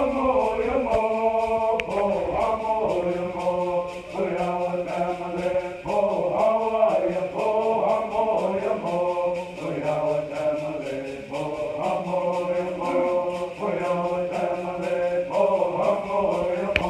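Several voices singing a chant-like tune together over a steady low drone.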